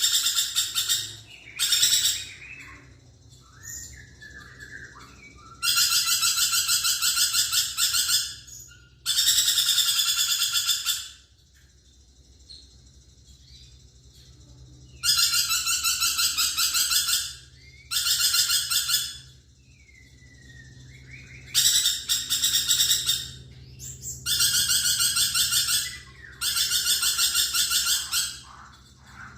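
Lorikeet (nuri perkici) calling in about nine long bouts of harsh, buzzy screeching, each one to three seconds, with softer short calls in the gaps.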